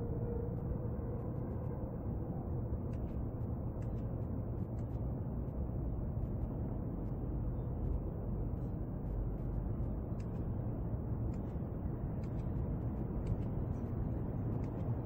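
Steady low rumbling background noise of a night-time outdoor recording, with faint scattered ticks.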